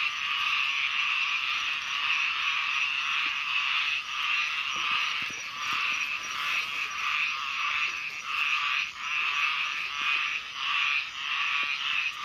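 A dense, steady chorus of small pond frogs (khiat) calling, with individual pulsing calls standing out through it.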